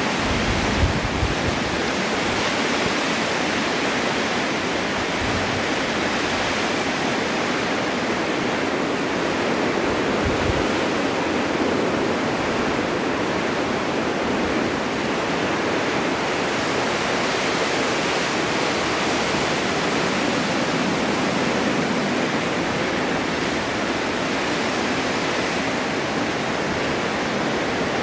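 Snowstorm wind blowing steadily: a continuous rushing hiss that swells and eases slowly, with brief low buffets about a second in and again around ten seconds in.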